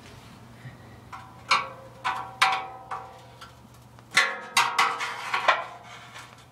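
A series of sharp metallic clinks, about ten in four seconds, each with a short ringing after it: a screwdriver working at a thin car exhaust heat shield to free the rocks trapped in its vent holes that make it rattle.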